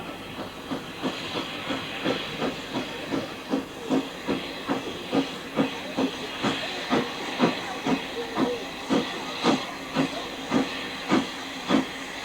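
Steam locomotive, an industrial tank engine, working a train with steady exhaust beats, about three a second, over a hiss of steam. The beats grow louder over the first half.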